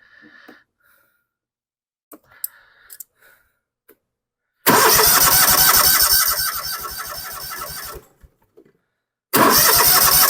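A John Deere Z665 zero-turn mower's Kawasaki V-twin engine is started twice after its leaking fuel pump was replaced. The first attempt starts suddenly about four and a half seconds in, runs for about three seconds and cuts off. The second start, near the end, keeps running. Faint clicks and handling noises come before it.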